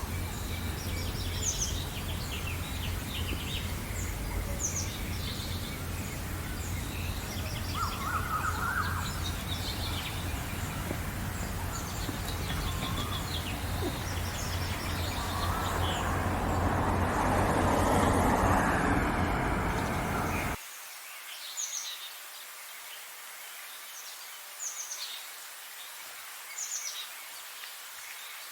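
Songbirds chirping and singing, many short calls overlapping, over a steady low rumble of background noise. A louder noise swells up over several seconds, and about twenty seconds in the rumble cuts off abruptly, leaving the birds over a much quieter background.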